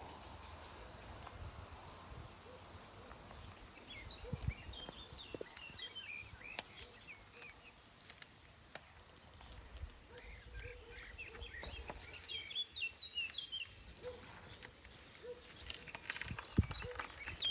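Outdoor ambience: small birds chirping in scattered runs over a steady background hiss, with a couple of soft thumps.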